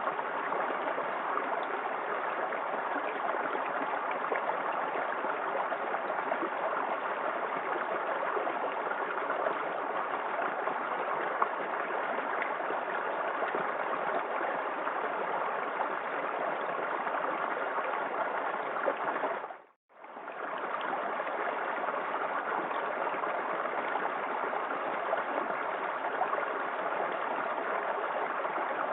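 Small waterfall in a forest creek: a steady rush of falling water. About two-thirds of the way through it drops out for a moment, then fades back in.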